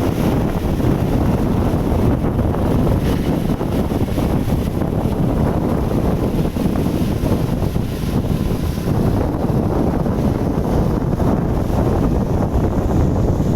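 Tractor with a rotary tiller running steadily, a dense low rumble, with wind buffeting the microphone.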